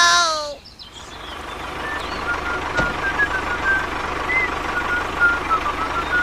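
Small electric motor of a DIY toy mini truck running steadily, with its whirring noise building up over the first second or two.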